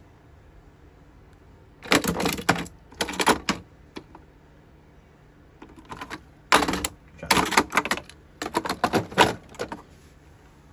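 Plastic toy trains being handled, clicking and rattling in several short bursts of clatter with quiet gaps between.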